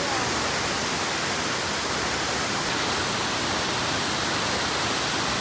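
Steady rushing of a large waterfall: an even, unbroken hiss.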